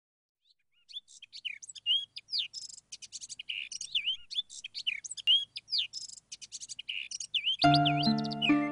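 Birdsong: many quick chirps and whistled phrases from several birds, then a music track with steady pitched notes comes in near the end.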